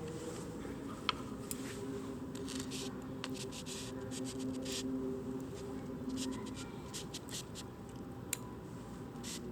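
Scattered small clicks and short scraping sounds over a steady background hiss, with a sharper click about a second in and another near the end.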